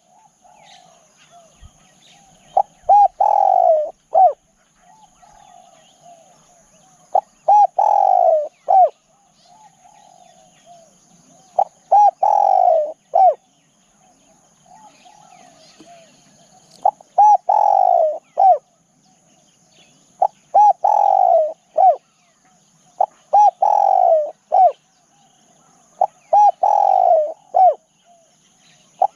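Spotted dove cooing, repeating its phrase of a few short notes about seven times, once every three to five seconds. A steady high-pitched whine runs underneath, and fainter bird twittering fills the gaps.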